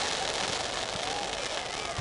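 Fireworks crackling in a dense hiss, with a crowd of spectators talking.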